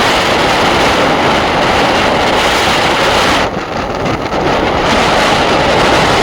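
Wind rushing over the microphone with road noise while riding a motorcycle, a steady loud rush that turns briefly quieter and duller about three and a half seconds in.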